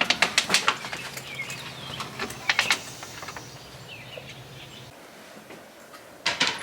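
A quick run of sharp clicks and knocks, a few more later on, with faint bird chirps and a low steady hum that stops about five seconds in.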